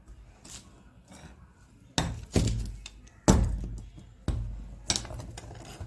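Five sharp knocks at uneven intervals, each ringing out briefly after the hit, as a jammed bit is being knocked loose from a rotary hammer drill. Faint clicks of handling come before the first knock.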